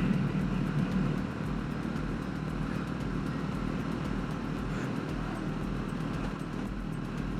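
Jawa 42 motorcycle's single-cylinder engine running steadily while riding on the open road.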